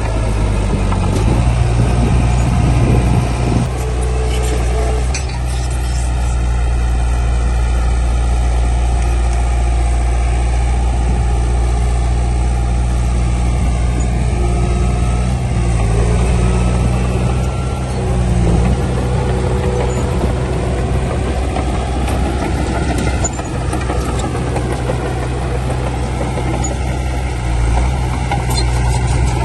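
Heavy earthmoving machine's diesel engine running steadily with a low, even hum.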